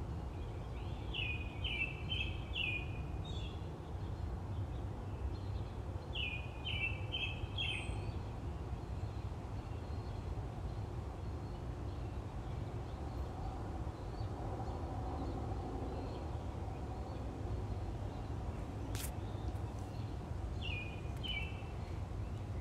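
A bird chirping in short runs of three or four quick notes, heard three times over a steady low hum.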